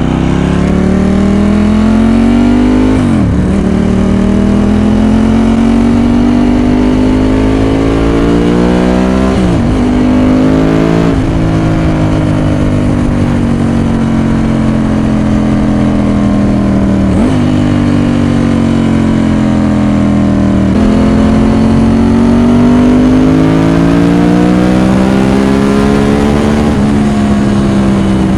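Ducati 916's L-twin engine through Arrow exhausts, accelerating through the gears: the pitch climbs under load and drops suddenly at each upshift, about six times.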